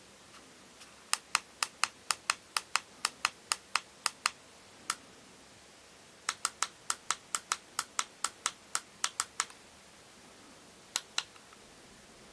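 A series of sharp clicks, about four a second, in two runs of a few seconds each, with a lone click between them and two more near the end.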